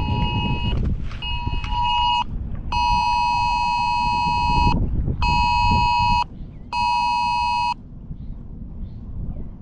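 Mobile phone's emergency alert tone, the two-tone attention signal of a tornado warning, blaring in four blasts: two of about two seconds, then two shorter ones of about a second, stopping near the end. Wind and water noise rumble underneath.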